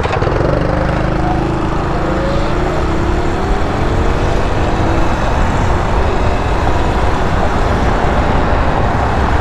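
Small motorcycle engine running and accelerating, its pitch rising several times through the first half, over a steady loud rumble.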